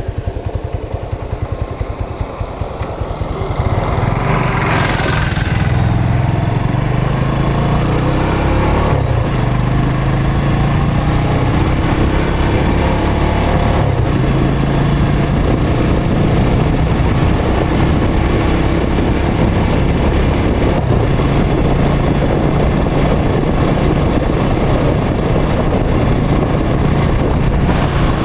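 Motorcycle engine idling with an even pulse, then revving up and pulling away about three seconds in, its pitch rising. It then runs steadily as the bike rides on.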